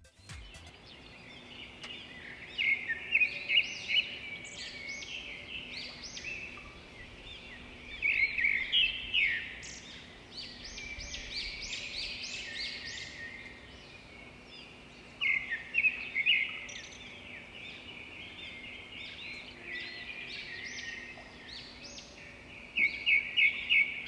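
Wild birds calling in bouts of short, sharp chirps and quick repeated notes, with the busiest bursts around a third of the way in, in the middle, and a rapid run of notes near the end.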